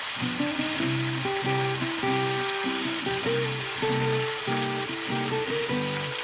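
Ground pork and beef taco meat sizzling in a frying pan as the last of its cooking water boils off, with steady background music of sustained notes over it.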